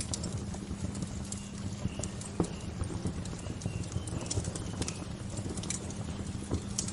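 Wood fire crackling, with irregular sharp pops and snaps over a steady low rush. A few faint bird chirps come through near the middle.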